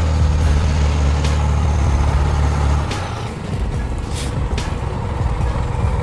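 Heavy truck engine running with a steady low drone, which gives way about three seconds in to a rougher, uneven low rumble, with a few brief sharp clicks.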